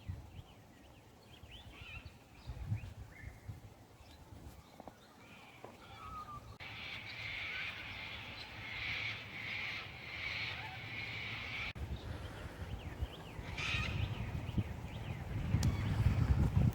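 Birds calling outdoors: a burst of rhythmic, pulsing calls lasting about five seconds, beginning and ending abruptly, over quiet open-air background. A low rumble builds near the end.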